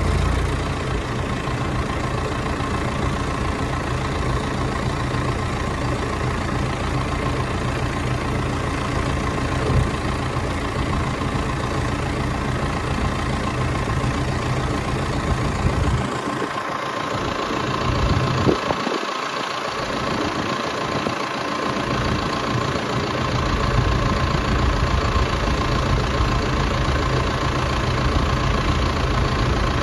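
A vehicle engine running steadily, a constant hum with a faint steady whine; the deep low rumble thins out for several seconds past the middle, then returns.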